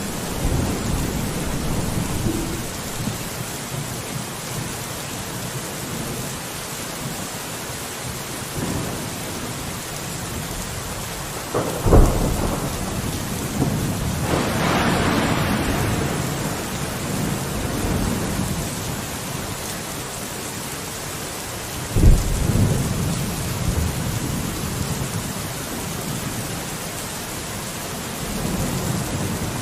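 Steady rain falling on a window with thunder rumbling. There are two sharp, loud claps, about twelve and twenty-two seconds in, and a longer swell of rumble shortly after the first.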